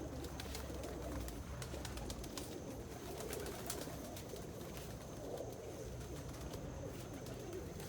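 Several domestic pigeons cooing together in a loft, a steady overlapping murmur of low coos, with a few faint clicks mixed in.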